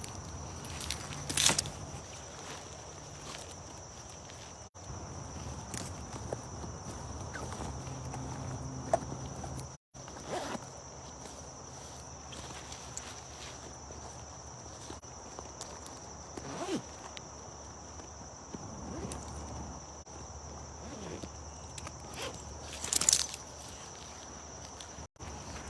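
Occasional footsteps and scuffs on a woodland trail, with a steady high-pitched insect drone behind them.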